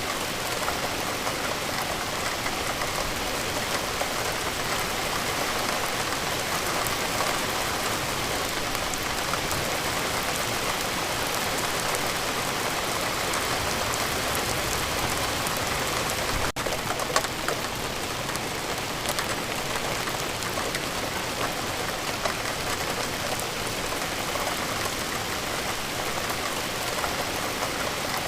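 Steady rain falling, an even hiss of water with many individual drops ticking on a surface. A momentary dropout breaks it about halfway through.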